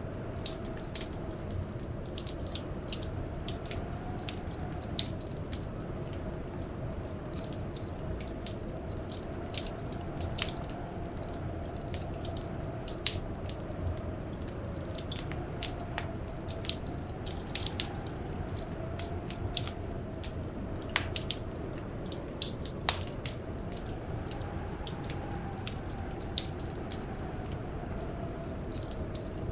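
A wood fire crackling, with frequent sharp pops over a steady low rumble of burning. Behind it, blizzard wind whistles in a faint tone that slowly rises and falls.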